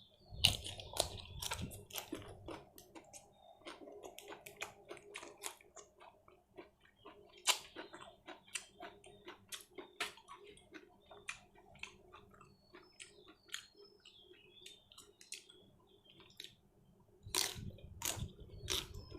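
A person chewing grilled pork salad with sticky rice close to the microphone: a run of wet smacks and sharp mouth clicks, loudest just after the start and again near the end, over a faint steady hum.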